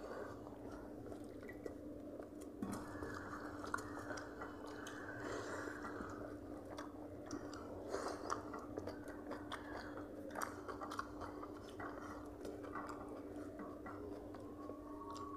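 Close-up chewing and eating sounds of two people eating rice and fried food by hand, with many small clicks and crunches. A steady low hum runs underneath.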